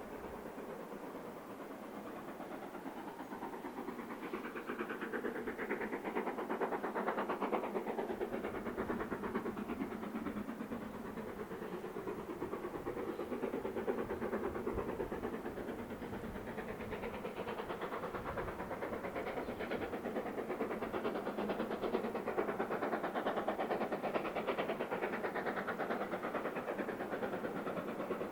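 Steam locomotive running with a train, its exhaust and wheels on the rails getting louder about four seconds in, easing off midway and building again later.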